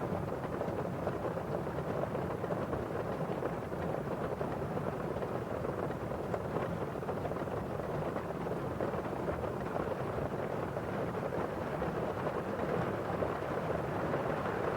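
Steady rain: drops hitting a window pane over the constant rustle of rain falling outside.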